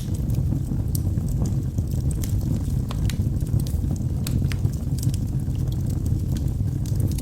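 Wood fire burning in a fireplace: a steady low rumble of flames with scattered sharp crackles and pops from the logs, several a second.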